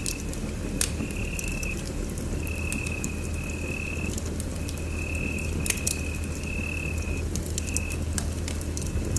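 Wood fire crackling in a fireplace, with sharp pops scattered through, over a low steady rumble. A thin high whistle comes and goes in stretches of about a second.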